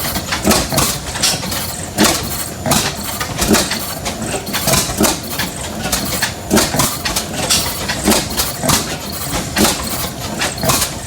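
Antique stationary oil-field gas engines running slowly, with sharp exhaust beats at an uneven pace of roughly one or two a second over a steady running noise.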